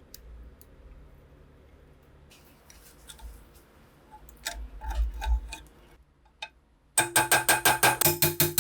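Scattered light metal taps and clicks, then, about seven seconds in, a fast, even run of sharp metallic clicks, about seven a second, each with a short ring.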